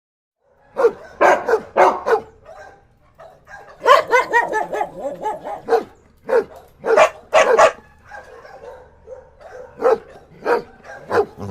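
Dog barking repeatedly, starting about a second in, in short sharp barks that come in quick runs and singly.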